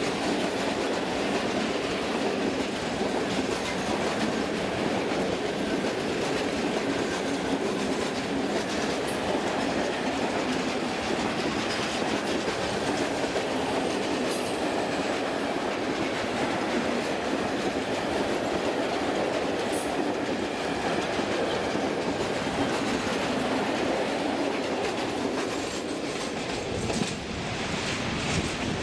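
A train running on rails, a steady rumble with the clickety-clack of wheels over rail joints, and a few brief high squeals.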